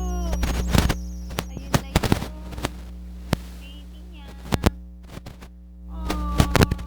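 Pet birds giving short gliding calls among many sharp clicks and taps, over a steady electrical hum.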